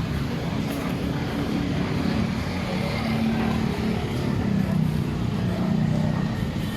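A motor vehicle engine running close by: a steady low hum that grows slightly louder partway through, over a haze of street noise.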